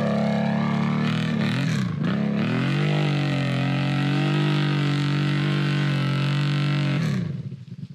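ATV engine running under throttle. Its note dips about two seconds in, climbs back up, holds steady, then eases off near the end.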